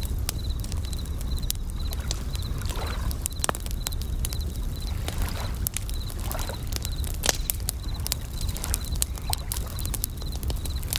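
Campfire crackling with many sharp pops over a steady low rush of waves, while bell crickets (suzumushi) chirp in short high-pitched pulses repeated in small groups.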